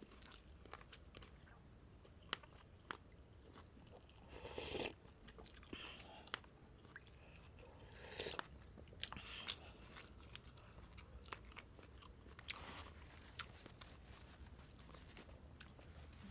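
Close-miked chewing and biting of a bowl of beef noodle soup, with many small wet clicks and three louder bursts of eating noise about four, eight and twelve and a half seconds in.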